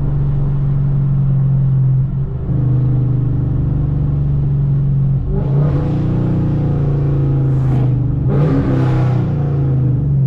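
Straight-piped Chevrolet Camaro V8 exhaust, heard through an open car window: a steady low drone while cruising, easing off briefly about two seconds in, then two louder rising surges of acceleration a few seconds apart.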